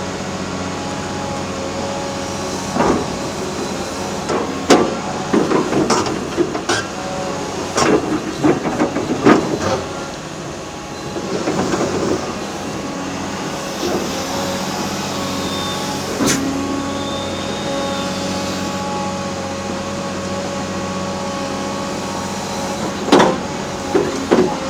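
A heavy tracked excavator's diesel engine runs steadily under load during demolition. Irregular cracks, crunches and clatters of concrete and debris breaking and falling come in a cluster a few seconds in, and again briefly near the end.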